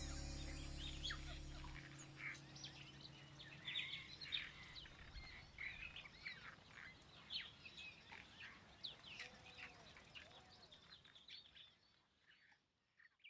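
End music fading out in the first couple of seconds, then small birds chirping many times in quick short calls, fading away near the end.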